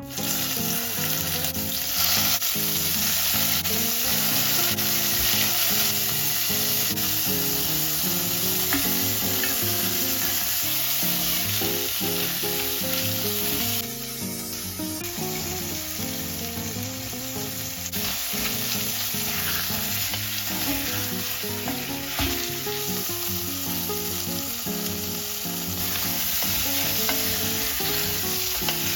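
Food sizzling as it fries in a pan and is stirred, with the sizzle easing for a few seconds in the middle. Soft background music runs underneath.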